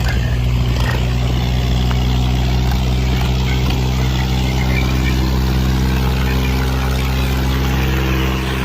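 Diesel engines of a John Deere 5210 and a 963 tractor running hard and steady under heavy load while pulling against each other in a tug-of-war, one even low pitch with many overtones and no change in speed.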